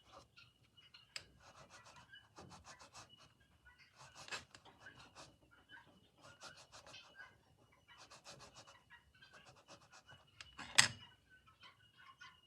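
White thread being rubbed and pulled through teal ink to colour it: a run of quick, soft scratching strokes, with one sharp tap near the end.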